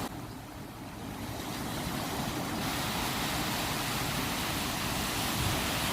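Ocean surf washing ashore, a steady rush of breaking waves that swells louder over the first couple of seconds.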